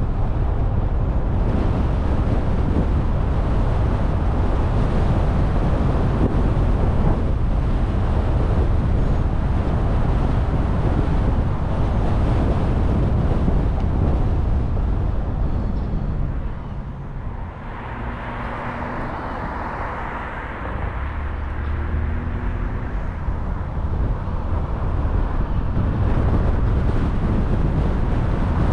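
A car driving, with steady low road and tyre noise and some wind rush. It gets quieter for several seconds about two-thirds of the way through, with a brief hiss in the middle of the dip, then returns to full level.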